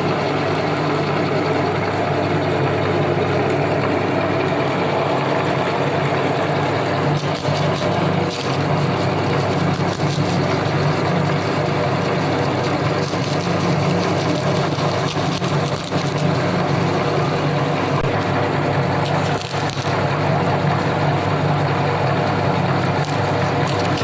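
Electric meat grinder running steadily while grinding ice cream cones, its motor humming, with a few brief crunching crackles.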